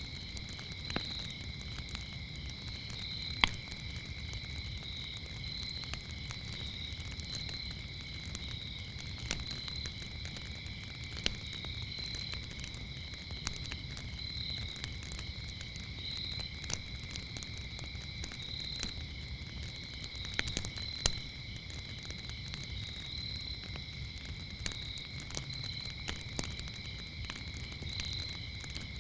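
Wood fire crackling with scattered sharp pops, the loudest about three and a half seconds in, over crickets chirping steadily and high-pitched with a regular pulse.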